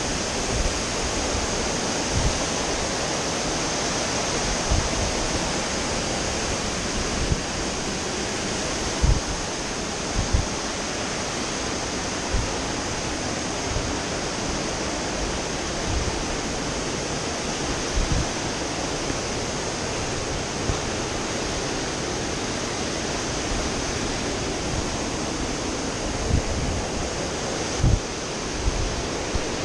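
Waterfall rushing as a steady, even roar of falling water, with occasional low thumps on the microphone.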